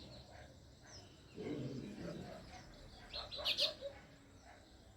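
House sparrows chirping in short repeated notes, with a loud burst of rapid chirps about three and a half seconds in.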